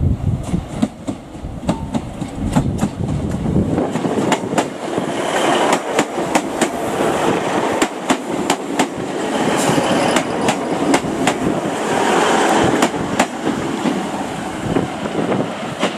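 Class 150 Sprinter diesel multiple unit passing close by: a deep rumble for the first few seconds, then the rushing of the coaches going past, with the wheels clicking sharply and irregularly over the rail joints.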